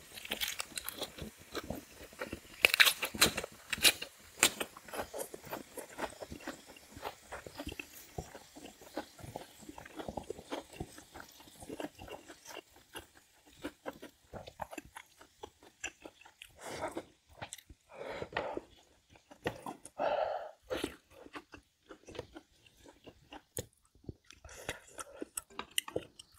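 A person chewing and crunching food in the mouth: a run of short crackling crunches, loudest about three to four seconds in.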